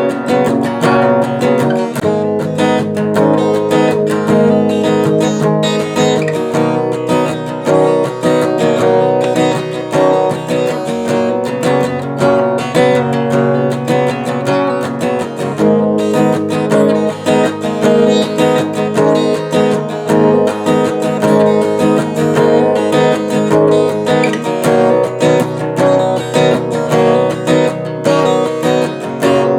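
Background music: strummed acoustic guitar with a steady rhythm and chord changes every few seconds.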